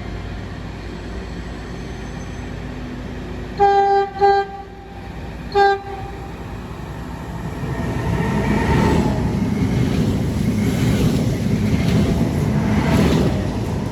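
Train horn sounding three short blasts, then a train passing through the station at speed, its rumble and wheel noise building from about halfway and staying loud almost to the end.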